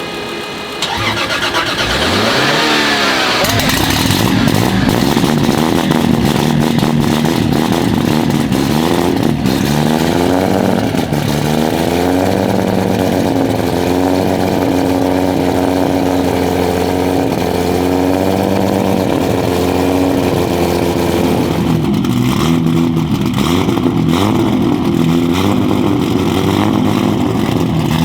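Heavily modified, straight-piped, big single-turbo 2JZ straight-six of a Toyota Supra MK4 starting about a second in, its revs sweeping up as it catches. It then settles into a loud, steady idle, with a brief rise and fall in revs around ten seconds in.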